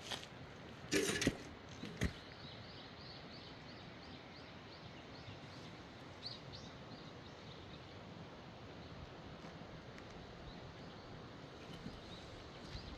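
Japanese tree frog calling: a run of short, quick repeated notes, about four a second, lasting several seconds. Before it, about a second in, a brief noisy bump and then a sharp click.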